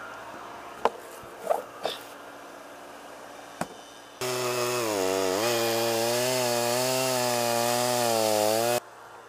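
Chainsaw running at full throttle in a cut for about four and a half seconds, starting about four seconds in; its pitch dips briefly as it loads into the wood, then it cuts off suddenly. Before it, a low steady hum with a few sharp knocks.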